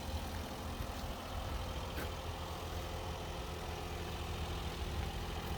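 2015 Daihatsu Jumbo Cab mini truck's small 660 cc three-cylinder engine idling steadily with a low rumble.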